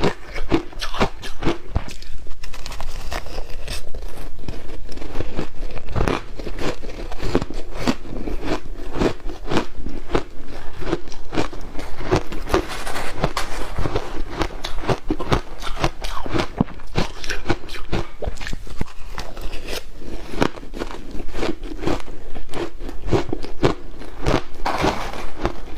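Close-up biting and crunching of ice cubes dusted with matcha powder: a dense, continuous run of sharp cracks and crunches with chewing between bites.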